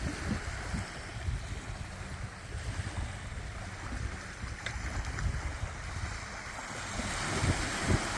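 Wind buffeting the microphone in irregular low rumbles over a steady rushing outdoor noise.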